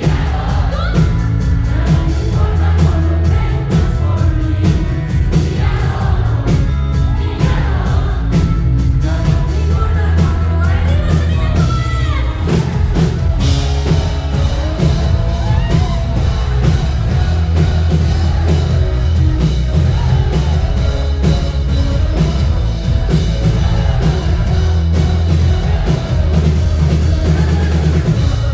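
Live pop-rock concert music from a band on stage, played loud through the PA, with a heavy bass and a voice singing over it.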